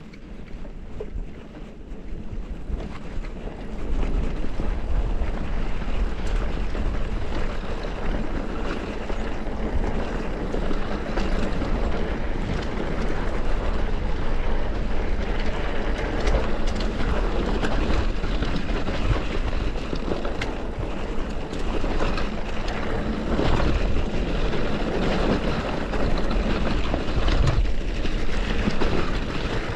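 Wind rushing over the microphone and a mountain bike rattling over a rough dirt trail while riding, growing louder about four seconds in as the bike picks up speed.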